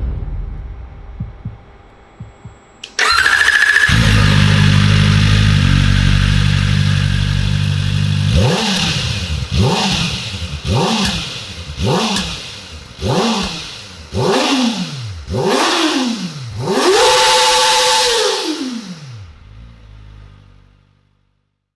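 Kawasaki Ninja ZX-4RR's 399 cc inline-four starting up about three seconds in and idling steadily. It is then revved in a run of quick throttle blips, each rising and falling in pitch, followed by one longer, higher rev, before it winds down to a stop near the end.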